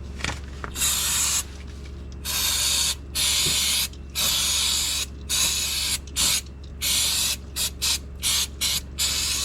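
Aerosol can of brake cleaner spraying in a series of hissing blasts, several lasting about a second, then many short quick squirts near the end, cleaning spilled engine oil off around a newly fitted oil filter.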